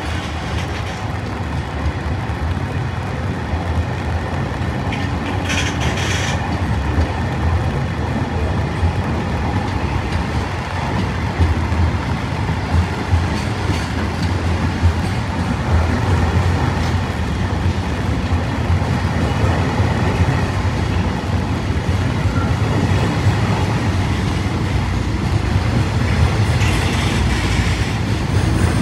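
Container wagons of a departing freight train rolling past close by, their wheels running steadily over the rails with occasional sharp knocks. The sound grows slowly louder as the train picks up speed.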